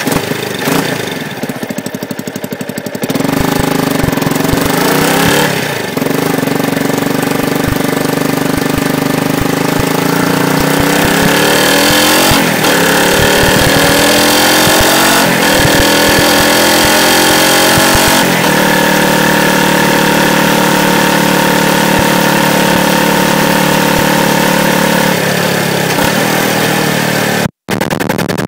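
Yamaha YZF-R125's 125 cc single-cylinder four-stroke engine running under way, picked up by a microphone under the bike. Its pitch climbs several times in a row, holds steady, then drops near the end, with a momentary break in the recording just before the end.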